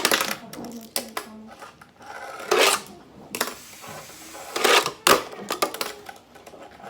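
Tech Deck fingerboard clacking on a hard surface, several sharp clacks of the board striking and landing, with a short stretch of rolling noise in the middle.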